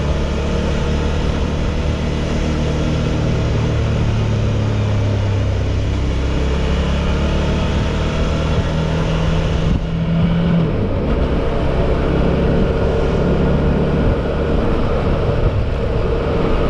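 Suzuki V-Strom 650's V-twin engine running steadily as the motorcycle is ridden, its pitch shifting about ten seconds in.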